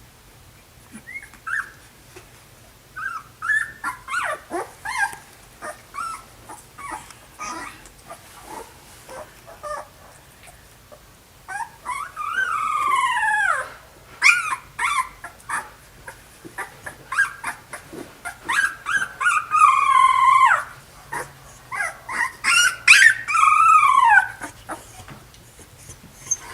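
Puppies whining and whimpering: many short high yelps, then several longer whines that fall in pitch.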